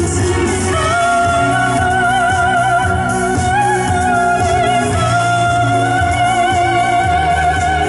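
A singer performing a Korean pop song over a backing track, holding one long high note with vibrato from about a second in almost to the end.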